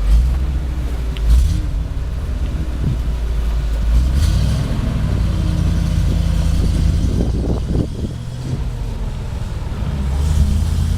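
A 1997 Ford F-700 dump truck's 7.0-litre gasoline V8 running steadily with a low rumble, with a few brief louder bumps over it.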